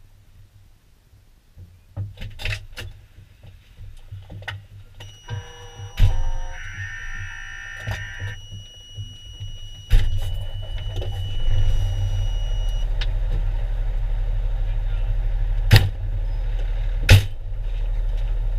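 A fire engine's diesel engine starts about halfway through and runs steadily with a deep rumble, after some knocks and a few seconds of steady electronic beeping tones; two sharp knocks come near the end.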